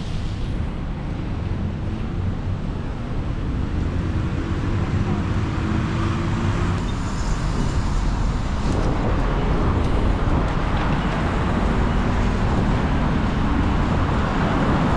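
Road and traffic noise heard while cycling along a city street: a steady low rumble of wind and tyres on the microphone, with a motor vehicle's engine passing partway through. The sound grows slowly louder.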